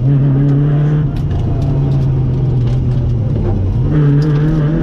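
Citroën rally car's engine heard from inside the cockpit at speed: running at steady revs, dropping lower about a second in, then picking up again near the end. A few sharp clicks come through over it.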